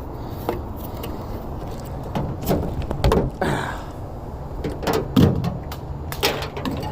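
Scattered knocks, clunks and scrapes of things being handled around a truck, such as a door or a jug being moved, with the loudest knock about five seconds in.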